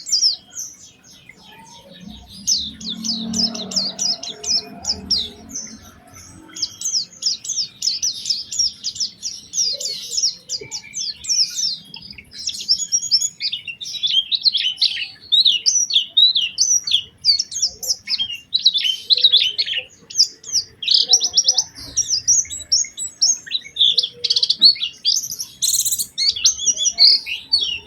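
White-eye (pleci) singing a fast, nearly unbroken twittering song of high chirps and trills, dipping briefly about a second in before running on continuously.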